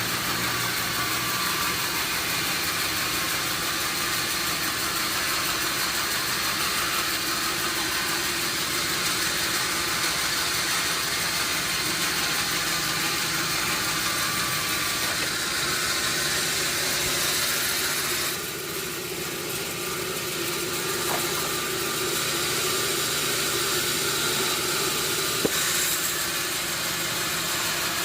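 Sawmill machinery running steadily, a continuous mechanical hiss with a low hum, dipping briefly about eighteen seconds in.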